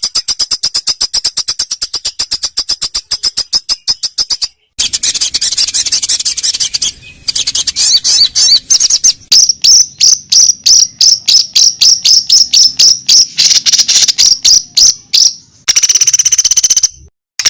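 Song-training recording of rapid, high chirps, about ten a second, played in spliced stretches that cut off abruptly about five and seven seconds in and near the end.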